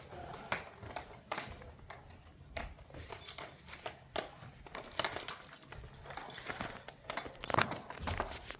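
Irregular clicks and light knocks of hand tools being handled.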